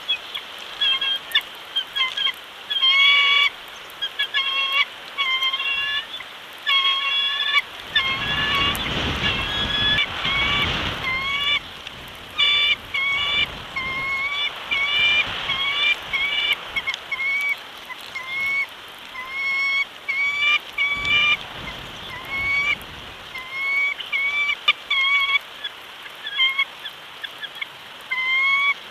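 Bald eagles calling: a long run of short, high, squeaky chirps and chatters, several a second with brief pauses. A rush of wind-like noise swells about a third of the way in and briefly again later.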